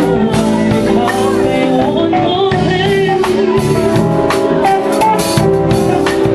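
A live soul band playing: a drum kit keeping a steady beat under bass and sustained keyboard chords, with a sung melody over the top.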